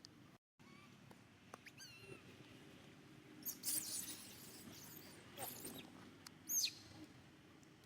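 Baby monkey crying: several short, high-pitched squeals, some sliding down in pitch, the loudest about halfway through and near the end.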